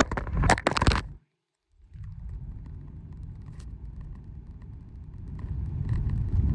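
Low, steady rumble of a small car on the move, growing louder near the end. A few clicks and knocks come in the first second, then a moment of dead silence where the recording is cut.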